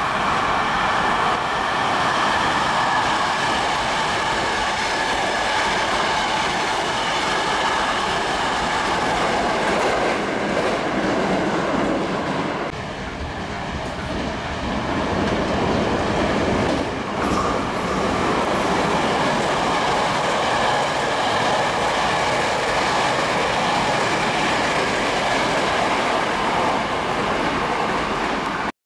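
Maroon Hankyu electric trains running through a station: a steady, loud rumble of wheels on rail with clatter over the rail joints. The sound changes suddenly about 13 seconds in, and a second train's rumble builds as it approaches and passes.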